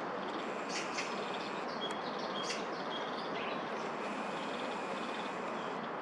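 Short, scattered bird calls, a few sharp notes and brief whistled ones, over a steady hum of distant city traffic.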